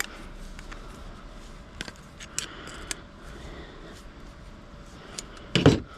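Small pieces of scrap metal clinking and knocking as they are handled and sorted, in scattered light taps, with one louder, briefly ringing clank near the end.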